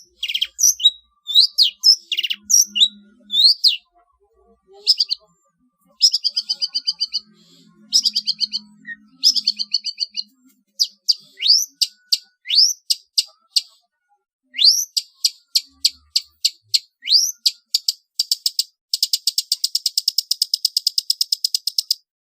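Long-tailed shrike (cendet) singing a varied song of sharp chirps, rising whistled notes and buzzy phrases. About three seconds from the end it breaks into a fast, even rattling trill that stops abruptly.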